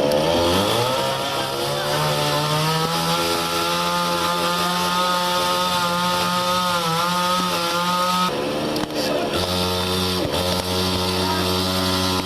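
Chainsaw running at high revs, cutting up fallen trees; its pitch climbs in the first second, holds steady, and shifts lower around eight seconds in.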